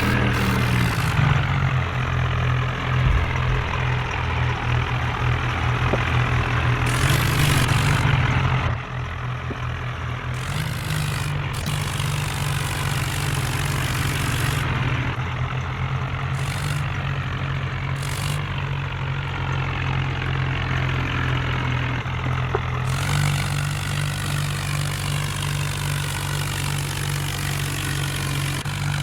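Tractor engine running steadily, a low-pitched hum that drops a little in loudness about nine seconds in.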